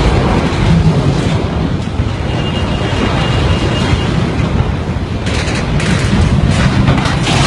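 Heavy wind buffeting the microphone, a loud, dense low rumble, with a faint thin whistle in the middle.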